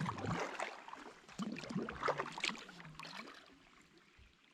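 Kayak paddling on a river: paddle blades dipping and splashing, water gurgling and dripping, dying away toward the end.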